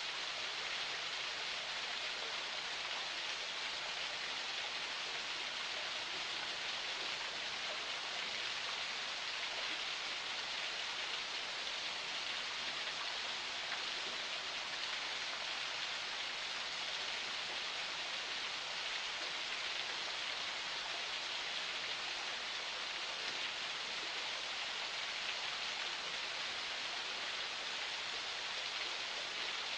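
Water of a small forest spring flowing steadily, a constant hiss with no change.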